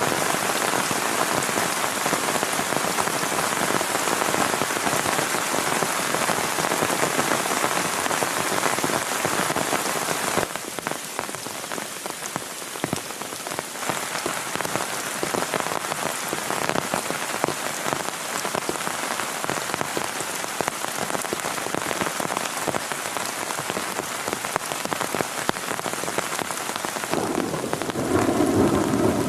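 Heavy rain falling steadily, an even hiss of drops hitting a surface. It drops a little in level about ten seconds in, and a louder, deeper rush of sound comes in near the end.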